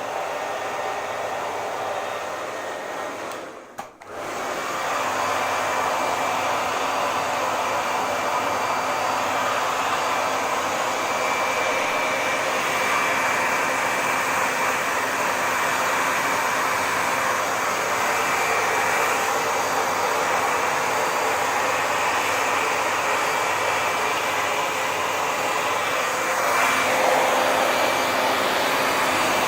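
Hair dryer blowing steadily: an even rush of air with a faint high motor whine. It briefly drops away about four seconds in, then comes straight back.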